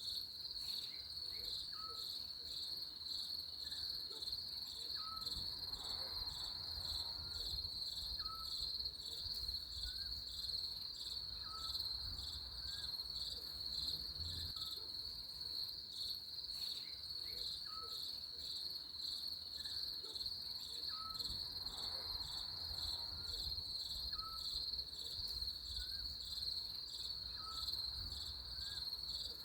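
Crickets chirping in a steady, high, fast-pulsing trill, with a short, slightly rising note repeating about every second and a half beneath it.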